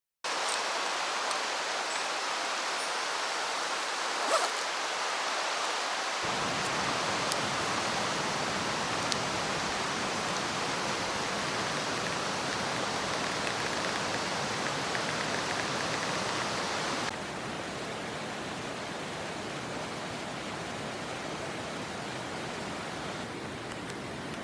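Mountain stream water rushing steadily. The sound of the water changes abruptly twice, about six seconds in and again near seventeen seconds, with a small knock a little after four seconds.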